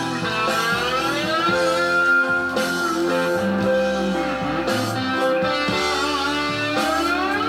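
Live southern rock band playing an instrumental passage: electric slide guitar carries a gliding melody over a steady band backing.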